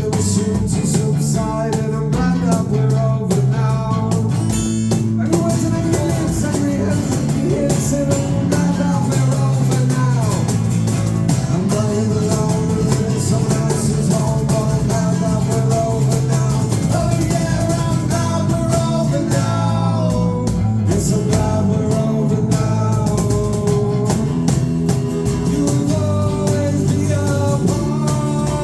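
Live band playing a guitar-led song.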